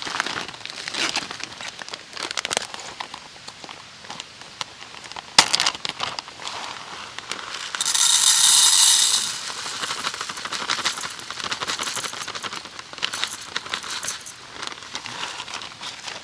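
Wood campfire crackling, with many sharp snaps and clicks. About eight seconds in, a loud hissing rush lasts just over a second.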